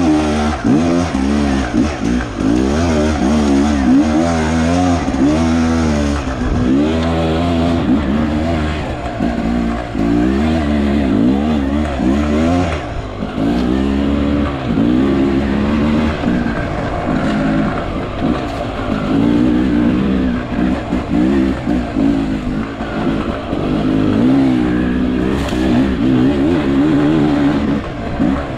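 Beta 300 RR two-stroke enduro motorcycle engine revving up and down over and over while being ridden, the pitch rising and falling every second or two.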